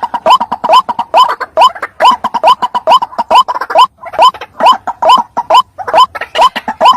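White-breasted waterhen (ruak-ruak) lure call: a rapid, unbroken series of short rising croaking notes, about three a second, played as a bird-trapping lure.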